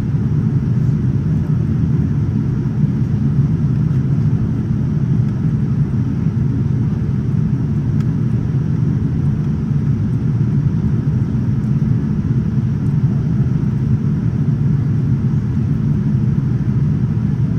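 Steady low rumble of cabin noise inside a Boeing 787-9 airliner in flight on descent: the hiss of air rushing past the fuselage and the drone of the engines, without change throughout.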